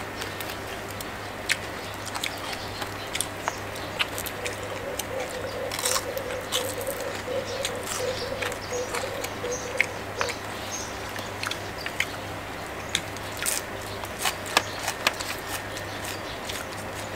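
Close-up eating sounds: chewing and crunching of crispy fried salmon and raw vegetables, with scattered sharp clicks and smacks over a steady low hum.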